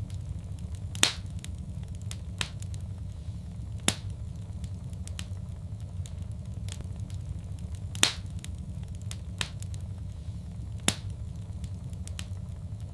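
Wood fire crackling in a fireplace: scattered sharp pops and snaps over a steady low rumble, with louder pops about a second, four, eight and eleven seconds in.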